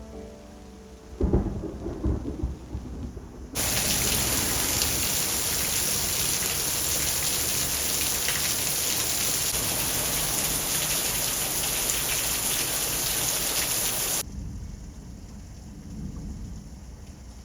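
A clap of thunder about a second in, rumbling on for a second or two. Then heavy rain falls steadily as a loud, even hiss; it starts suddenly and cuts off about three seconds before the end, leaving a faint low rumble.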